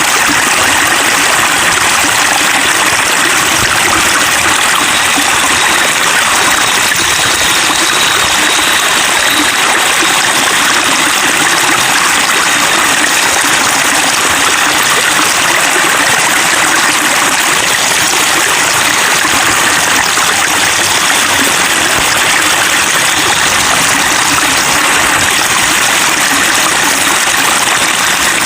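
Water running and splashing in a steady, even stream, a continuous gentle babbling.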